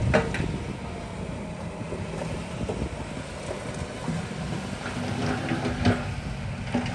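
Heavy earthmoving machinery running with a steady low diesel rumble, with a few sharp metallic knocks, one near the start and one about six seconds in.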